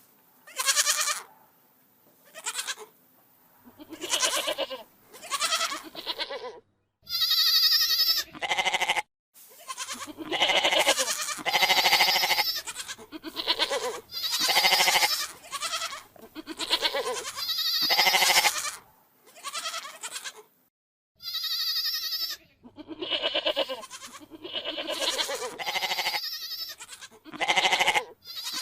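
Goats bleating over and over, about fifteen separate quavering bleats, a few of them long and higher-pitched.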